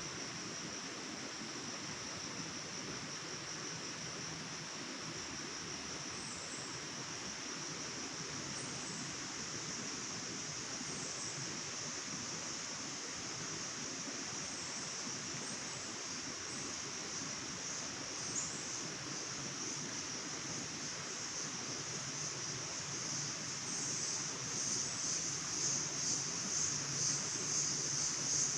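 Forest ambience: a steady, high-pitched insect chorus over a soft, even hiss, with faint short chirps now and then. The insect sound grows louder and pulses about one and a half times a second in the last few seconds.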